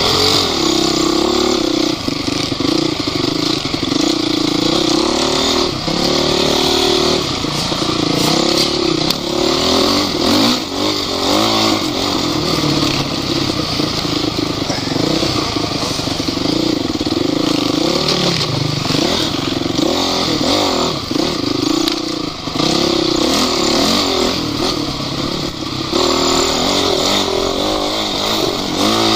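Off-road vehicle engine running hard under load, its revs rising and falling again and again as it works over rough ground.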